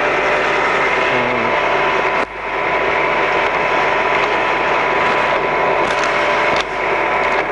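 Colchester Mascot 1600 centre lathe running under power, its headstock gearing, lead screw and feed shaft turning: a steady mechanical whir with a thin steady tone through it. The noise drops sharply for a moment twice, about two seconds in and again near the end.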